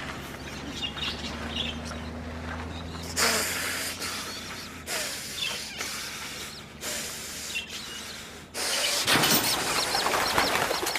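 Birds chirping now and then over a low hum that stops about halfway through, with several short bursts of hissing noise and a louder, steady hiss near the end.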